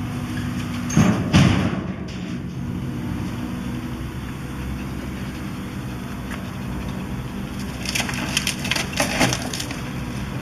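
Excavator engine running steadily while house timber splinters and cracks under demolition. There are two loud cracks about a second in, then a run of crunching and splintering near the end.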